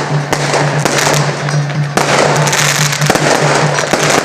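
Firecracker strings going off in a dense, continuous crackle of sharp pops, over a low hum that pulses steadily.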